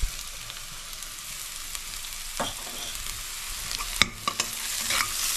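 Chopped onion, ginger and cumin sizzling in ghee in a stainless steel pan while a steel spatula stirs, scraping and clattering against the pan; the sharpest knock comes about four seconds in.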